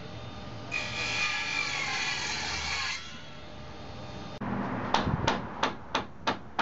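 A power tool runs with a whining, hissing cut for about two seconds, then hammer blows start about halfway through and go on steadily, roughly three strikes a second.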